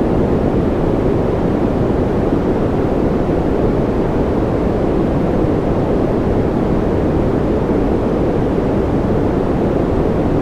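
Continuous white-noise track for sleep or focus: a steady, even rushing hiss with its weight in the low and middle range, unchanging throughout.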